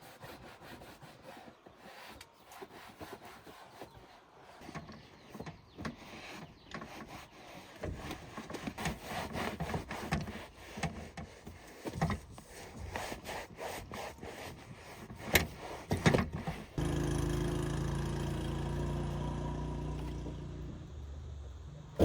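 Irregular scraping and rubbing with scattered sharp knocks, typical of hand work on a surface. Near the end a motor starts suddenly, runs steadily for about five seconds while slowly fading, and cuts off abruptly.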